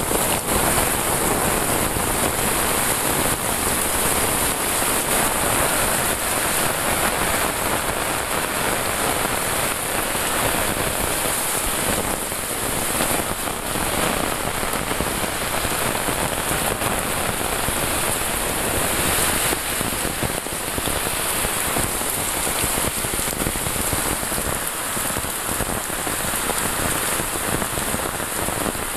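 Heavy rain pouring down in a steady, dense hiss of drops hitting leaves and a paved path, without let-up.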